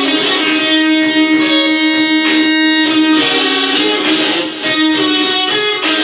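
Electric guitar playing blues, plucked attacks with several long held notes.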